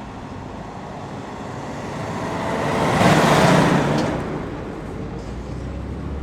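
A car passing by: a rush of engine and road noise that swells to its loudest about three seconds in, then fades away.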